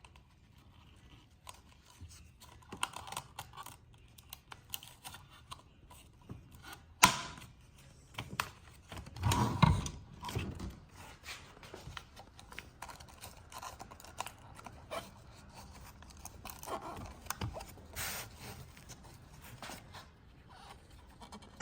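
A sheet of sandpaper being handled and fitted into a sander's clips: rustling, scraping and scattered small clicks, with a sharp click about seven seconds in and a louder knock near ten seconds.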